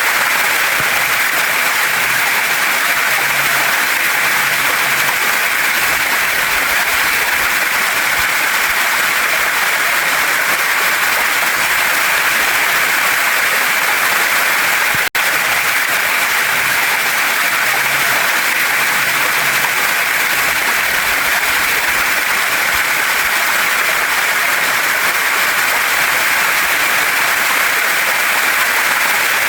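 Waterfall and mountain stream, water rushing over rocks in a steady, even hiss. About halfway through there is a momentary dropout.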